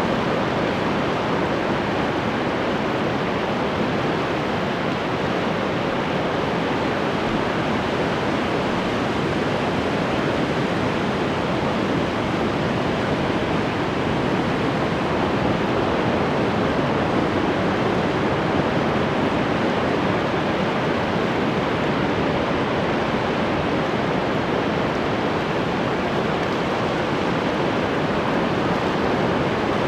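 Ocean surf: a steady, even wash of waves, with no single breaker standing out.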